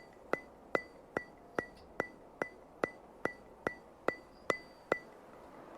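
An even, metronome-like series of sharp ticks with a brief high ring, about two and a half a second, stopping about five seconds in.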